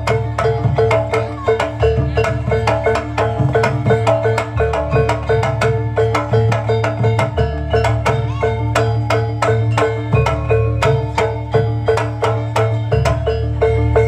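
Javanese jaranan gamelan music: struck mallet percussion playing fast, even strokes over a sustained low drone, with drums.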